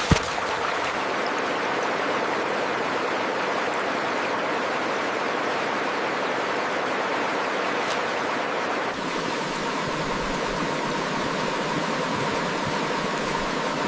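Steady rushing noise of running water, like a stream or small waterfall, with a sharp click just after the start. About nine seconds in the sound changes abruptly, as at an edit, and a faint steady tone joins it.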